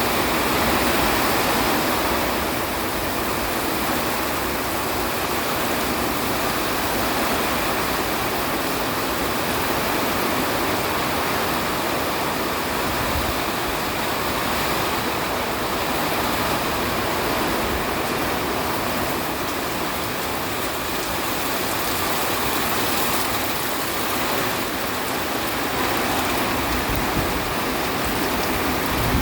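Hurricane wind and heavy rain making a steady, unbroken rush.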